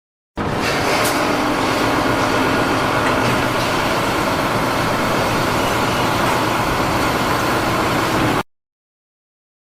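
Heavy engine running steadily; the sound starts abruptly and cuts off abruptly after about eight seconds.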